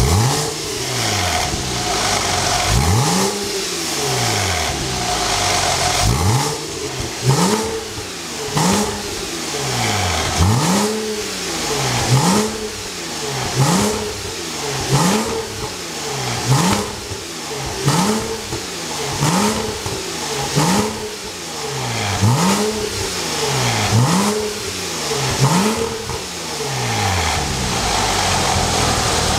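Porsche 987's flat-six engine through its standard exhaust, blipped over and over from idle. Each rev rises and falls within about a second, repeating roughly once a second.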